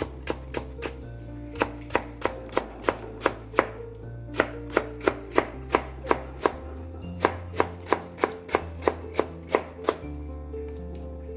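Kitchen knife slicing radish and striking the cutting board at about three strokes a second, in three runs with short pauses between them. Background music plays underneath.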